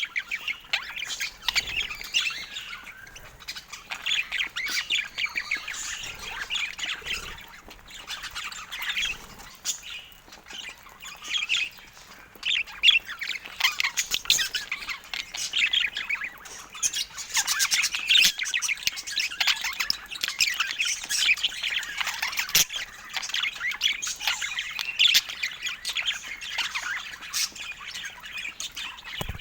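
A group of budgerigars chattering: many short high chirps and squawks overlapping without pause.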